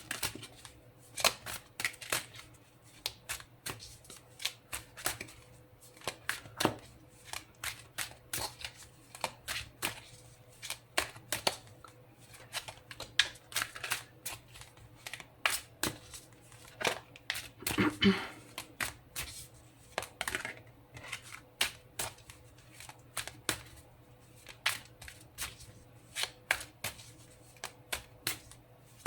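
A deck of tarot cards being shuffled by hand: a long run of irregular soft slaps and clicks of uneven strength.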